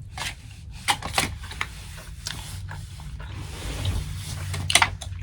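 Takeout food container and utensils being handled: a few sharp clicks and taps with some rustling, the loudest tap near the end, over a steady low hum.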